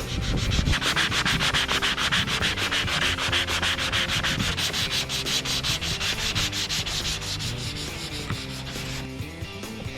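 Sandpaper rubbing on Bondo body filler over a fiberglass school bus hood, in rapid, even back-and-forth strokes that fade away near the end.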